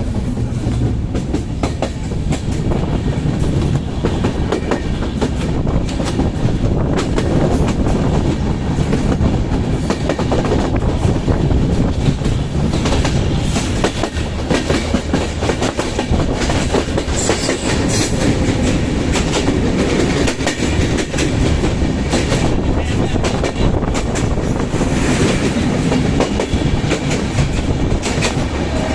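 Kapotaksha Express intercity train running through a station without stopping, its wheels clattering steadily over the rail joints with a heavy rumble.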